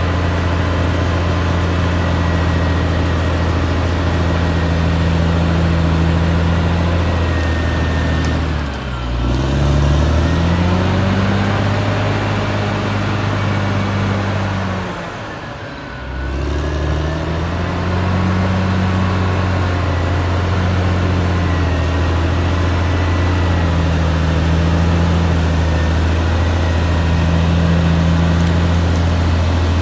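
Caterpillar D6R XL bulldozer's diesel engine running steadily, with a high whine above it. Twice, about nine seconds in and again around fifteen seconds, the engine note and the whine drop in pitch and loudness, then climb back up.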